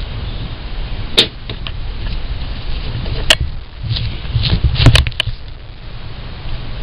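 A few sharp knocks and clicks over a steady low rumble: one about a second in, another a little past three seconds, and a quick cluster of three or four near five seconds.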